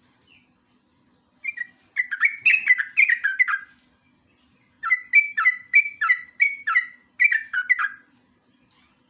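Yellow-vented bulbul (trucuk) singing its rapid 'ngeropel' song: two quick runs of clear chirps, each note falling in pitch, with a pause of about a second between the runs.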